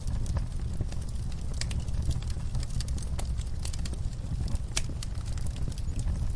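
Wood fire crackling in a fireplace: scattered sharp pops and snaps from the burning logs over a steady low rumble of the flames, with a louder pop a little before five seconds in.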